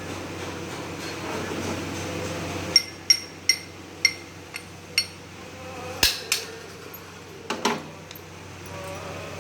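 A series of about nine sharp metal-on-metal taps at irregular spacing, each with a brief ring, starting about a third of the way in. A steady low hum fades out just before the taps begin.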